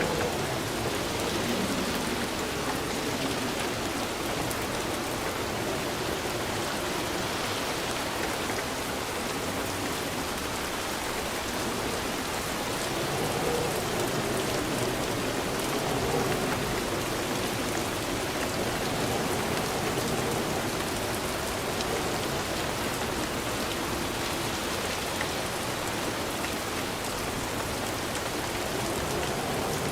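Steady rain falling and pattering on a surface, an even wash of sound that swells slightly and eases without any distinct thunder.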